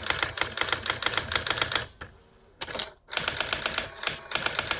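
Brother AX-20 daisy-wheel electronic typewriter printing characters sent from a computer, a rapid run of sharp strikes at about eight a second. It pauses for about a second roughly two seconds in, then resumes printing.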